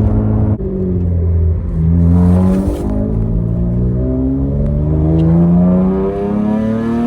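Acura TL V6 through a catless straight-pipe exhaust, accelerating hard. The engine note climbs, drops as it shifts about half a second in and again near three seconds, then climbs steadily again.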